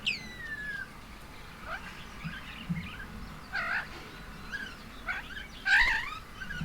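Birds calling at a feeding table: a loud whistle sliding steeply down in pitch right at the start, then scattered chirps, with louder calls in the middle and about a second before the end.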